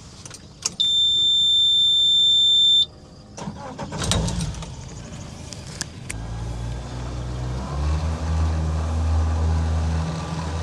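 Boat outboard motor being started: a loud, steady high beep for about two seconds, typical of an outboard's key-on warning horn, then the engine cranks and catches about six seconds in and settles into a low, steady idle.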